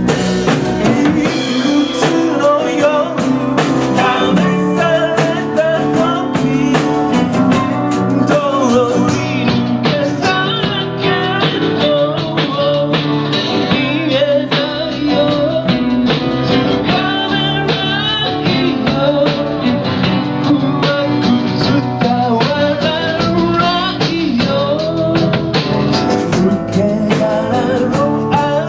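Live rock band playing a song with electric guitar and drum kit, a wavering lead melody line over a steady beat.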